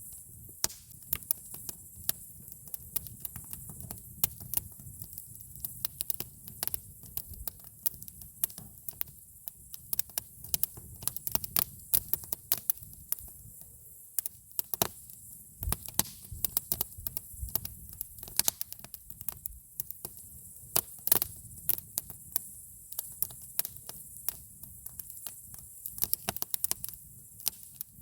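Campfire crackling: irregular sharp pops and snaps of burning wood, several a second and some much louder than others, over a low steady rumble.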